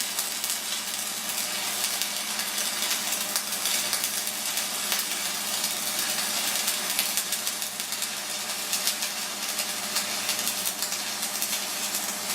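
Stick-welding arc burning a 6013 electrode: a steady, crackling sizzle made of dense, rapid crackles, running evenly while a bead is laid.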